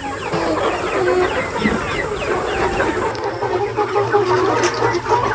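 A flock of chickens clucking and peeping together, many short falling calls overlapping. A steady low hum starts about three seconds in.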